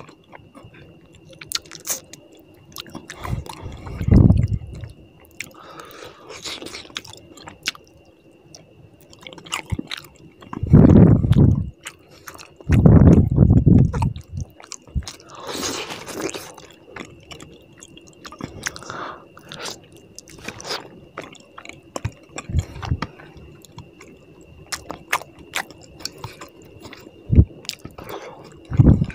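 Close-miked wet chewing and squishing as rice and tilapia fish curry are eaten by hand, with scattered mouth clicks and a few short, louder bursts.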